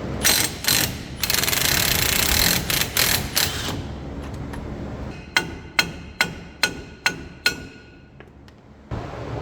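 An impact wrench on a 15/16 socket zips in two short bursts, then runs steadily for about two and a half seconds, spinning off a suspension nut. About two seconds later come six hammer blows on steel, a little over two a second, each ringing.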